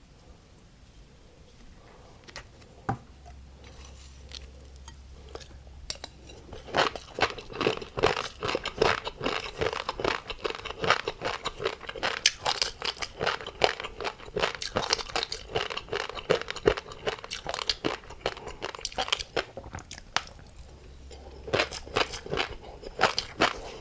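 Close-up eating sounds of someone chewing tobiko (flying-fish roe) with a crunchy topping: dense, rapid crackling and popping. It is sparse for the first few seconds, builds about seven seconds in, eases off briefly near the end and then resumes.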